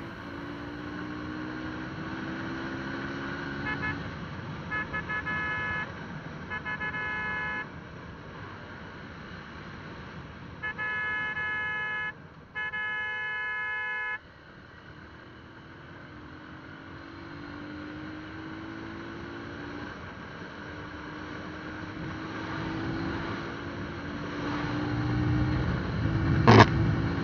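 Vehicle horn honking on a road: a few short toots, then two longer blasts, over the steady hum of traffic and an engine whose note rises as it speeds up. A single sharp, loud sound comes near the end.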